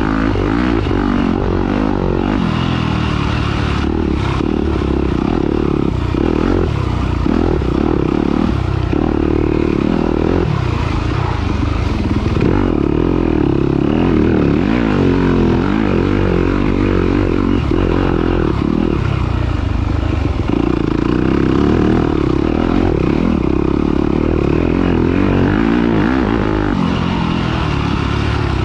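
Off-road dirt bike engine running hard and revving up and down continuously as it is ridden through a race.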